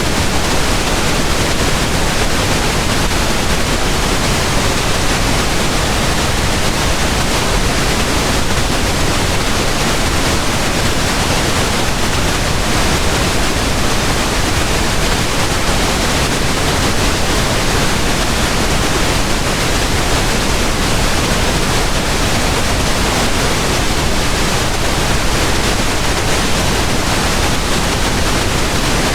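Pink noise: a steady, even hiss, unchanging throughout.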